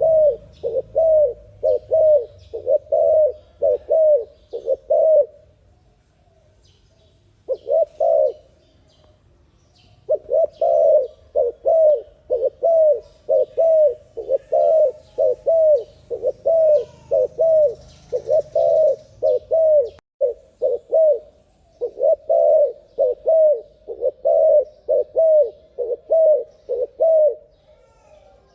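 Spotted dove (terkukur) cooing in a fast, steady run of short coos, about two a second, broken by two pauses of a couple of seconds near the start. Faint chirps of small birds sound behind it.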